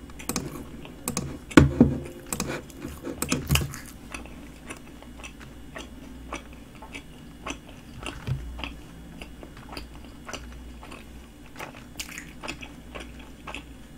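Close-miked chewing of flaky pastry. There are several loud, crisp crunches in the first few seconds, followed by steadier, softer chewing with small wet mouth clicks.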